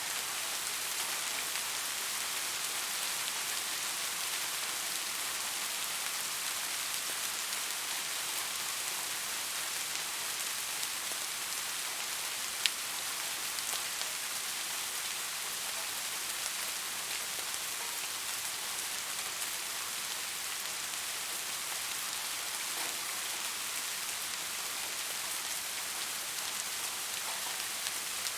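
Steady rain falling, an even hiss of many drops. One sharp tick about halfway through stands out above it.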